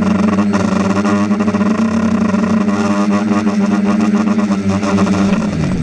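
An engine running at a steady speed, its pitch dropping and fading near the end.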